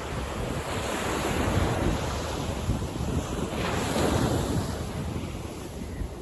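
Sea waves surging and washing in, swelling twice and easing off near the end.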